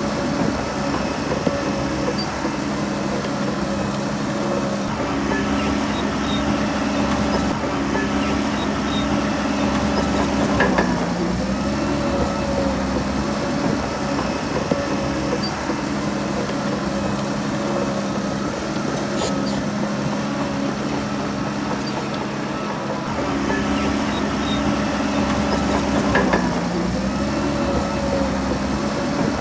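Shantui DH17C3 bulldozer's diesel engine running steadily while working, its pitch dipping briefly and recovering about a third of the way in and again near the end. A few short metal clanks are heard over it.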